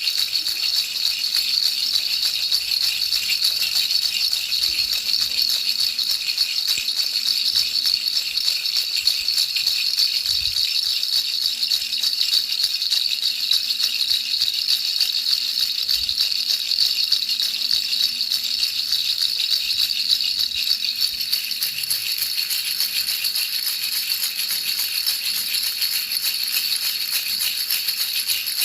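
Baby rattle shaken steadily and continuously, a dense high-pitched rattling hiss with no breaks, used as white noise to lull a baby to sleep.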